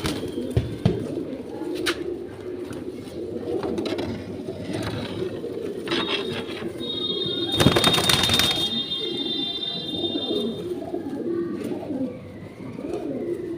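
Pigeons cooing continuously, low overlapping coos. About seven and a half seconds in comes a loud, brief rush of noise, the loudest thing here, with a thin high tone lasting a few seconds around it.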